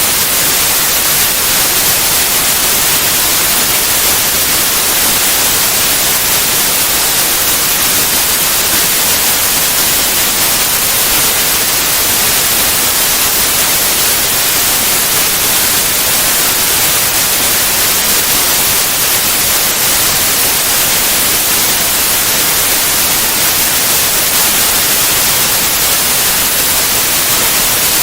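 Steady white noise: an even, unbroken hiss across all pitches, brightest in the highs, with no change or events.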